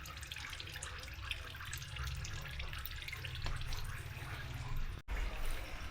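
Fish sauce trickling and dripping out of a large fermentation vessel's outlet, a steady running-liquid sound. It cuts out briefly about five seconds in.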